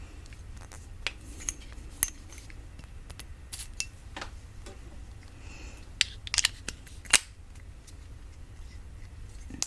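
Fingernails tapping irregularly on a matte black YSL cologne bottle: scattered sharp taps on glass, the loudest about two, six and seven seconds in.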